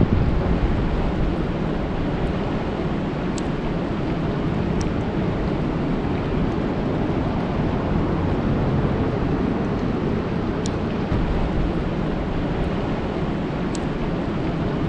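Steady rain falling on a lake: a dense, even hiss with a heavy low rumble underneath. A few faint high ticks stand out now and then.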